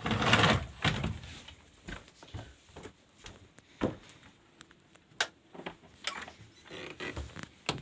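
Wooden door being shut and handled: a short loud rush of noise at the start, then scattered light knocks and clicks of wood.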